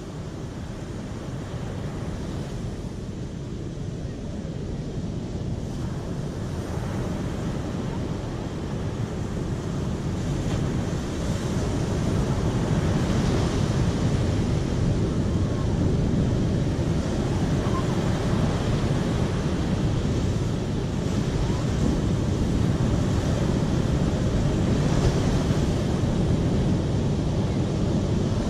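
Steady rushing water noise, growing louder over the first ten seconds or so and then holding even.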